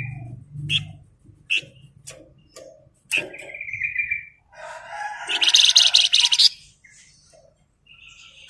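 Flamboyan songbird singing: scattered short chirps and a buzzy note, then, about five seconds in, a loud rapid rattling trill (the 'ngebren' song) lasting about a second and a half. A low hum fades out in the first second.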